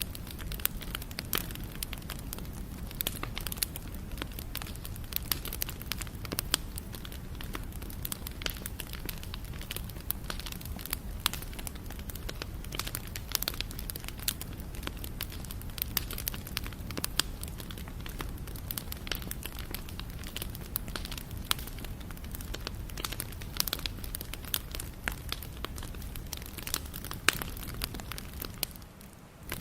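Wood fire crackling: a steady stream of irregular sharp pops and snaps over a low rumble of flames, with a brief drop in level near the end.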